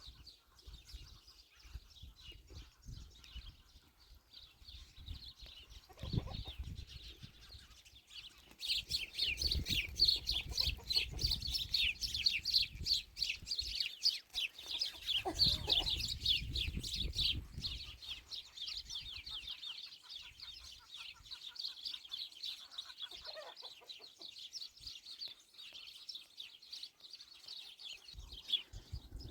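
Chickens calling: from about a third of the way in, a dense run of rapid, high, short chirps that carries on almost to the end. Two low rumbles come and go underneath, one about 6 seconds in and a longer one a few seconds after the chirping starts.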